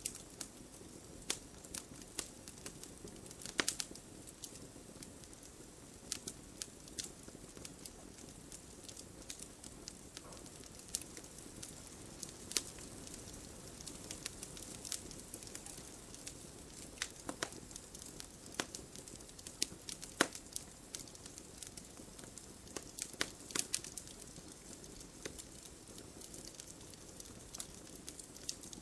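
Campfire burning: wood crackling and popping in irregular sharp snaps over a low steady hiss, with a few louder pops now and then.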